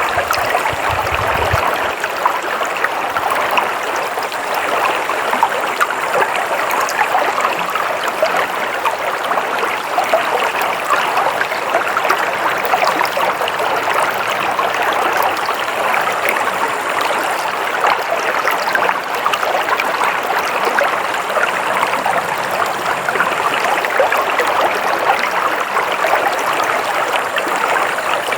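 Stream water flowing and splashing over rocks, a steady babbling rush.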